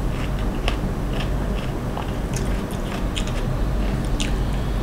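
Close-up chewing and biting of grilled pork and shredded cabbage salad: irregular crisp crunches, a few a second, over a steady low rumble.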